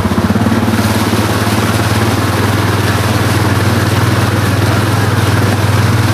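ATV engine running steadily, with a rough hiss of noise rising over it about a second in.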